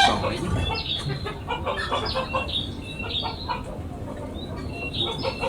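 Chickens clucking, with many short, high chirps of small birds mixed in.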